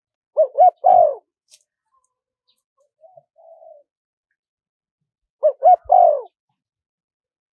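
Spotted dove cooing: two phrases, each of two short notes and a longer falling coo, about five seconds apart, with a faint softer coo between them.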